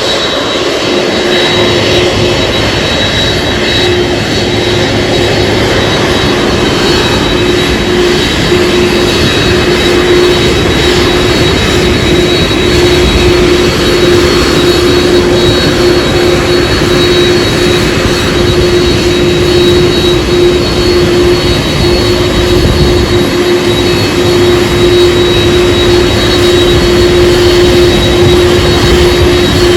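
Aircraft engines running: a loud, steady rush with a steady whine, growing slightly louder over the span.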